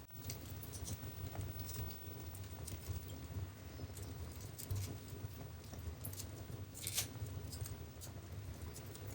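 Wood fire burning in a fireplace: irregular sharp crackles and pops over a steady low rumble of the flames, with a louder crack about seven seconds in.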